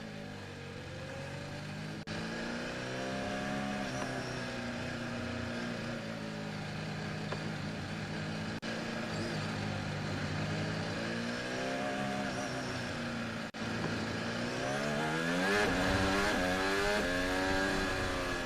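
Onboard sound of a Red Bull RB16B Formula 1 car's turbocharged Honda V6 at racing speed, its pitch rising under acceleration through upshifts and falling under braking and downshifts, again and again. The sound cuts out briefly three times.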